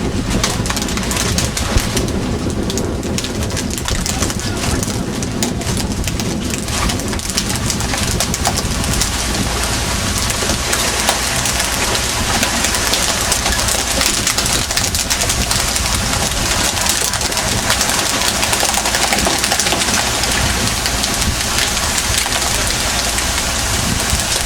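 Steady engine drone with rushing water and wind noise, typical aboard a fishing boat under way; the hiss grows stronger about a third of the way through.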